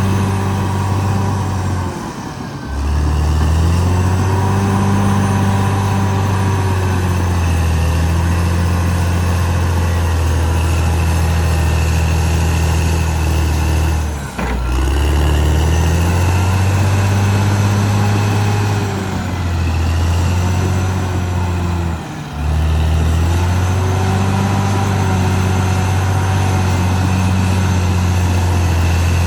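Caterpillar D6R XL bulldozer's diesel engine running under load, its pitch sagging and recovering as it works. The sound drops off briefly three times, about two, fourteen and twenty-two seconds in, then comes straight back up.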